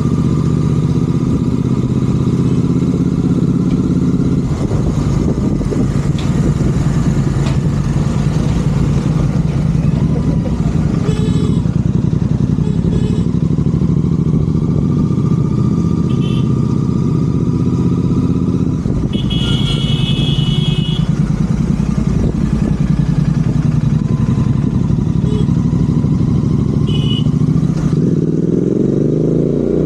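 Royal Enfield Continental GT 650's parallel-twin engine running through Red Rooster aftermarket exhausts while cruising, its pitch rising steeply as it revs up near the end. Short high tones cut in several times, the longest a little after the middle.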